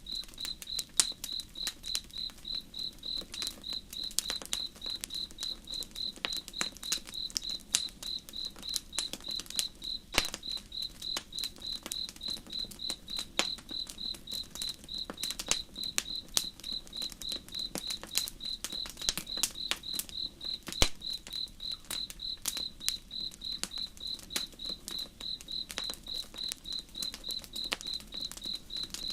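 A cricket chirping steadily, an even train of high chirps at about three a second, over campfire crackle: sharp irregular pops and snaps, the loudest a little after one second and near twenty-one seconds in. A soft low rush of flowing river water sits underneath.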